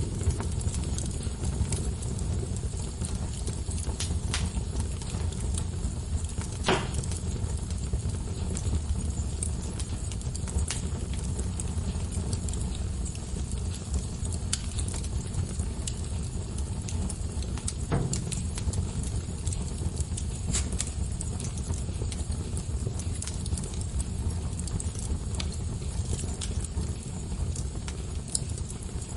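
Wood fire burning in a fireplace: a steady low rumble of flames with scattered sharp crackles and pops, the strongest pop about seven seconds in.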